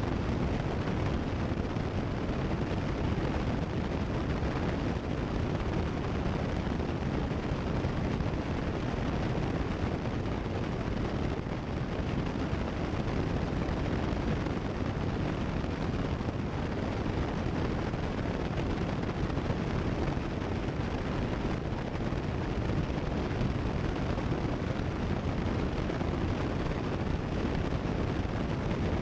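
Steady drone of a Cessna 172 Skyhawk in cruise flight, engine and rushing air blended into an even noise with no change.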